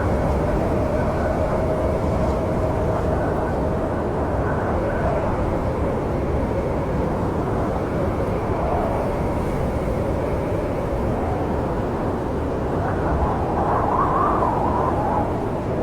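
Snowstorm wind blowing in a steady low rumble, with a wavering howl that swells and rises in pitch about thirteen seconds in.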